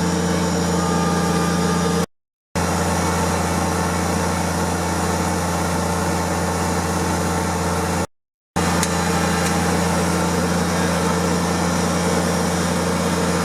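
Kubota tractor engine running at a steady speed, without revving. The sound drops to silence twice for about half a second, about two and eight seconds in.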